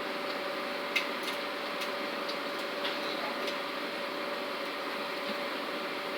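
Microwave oven running with a steady hum, with a few light ticks in the first few seconds, the sharpest about a second in.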